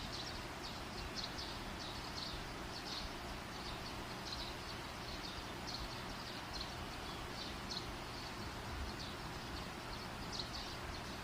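Steady fire hiss and rumble, with short high chirps repeating unevenly about once or twice a second over it.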